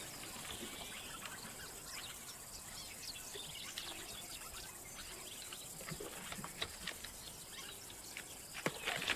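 Faint bush ambience: scattered short bird chirps over a low hiss, with a few brief knocks near the end.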